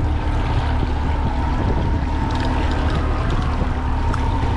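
Boat motor running steadily at trolling speed, a low hum with a faint steady tone over it, along with wind and water noise. A few faint clicks come about two seconds in and again near the end.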